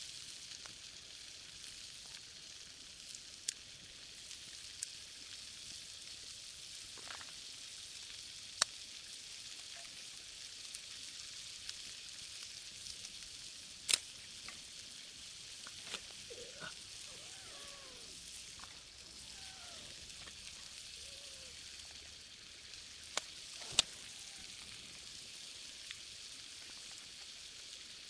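Pork head meat and garlic sizzling in a frying pan over a fire: a steady frying hiss with a few sharp pops.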